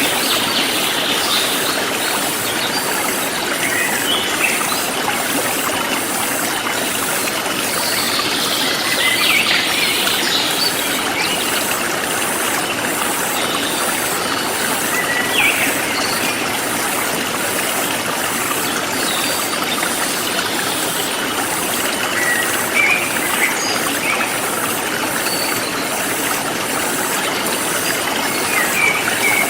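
Forest stream flowing steadily, with short bird chirps now and then, a cluster about eight to ten seconds in. A high insect call pulses evenly, about once or twice a second, above the water.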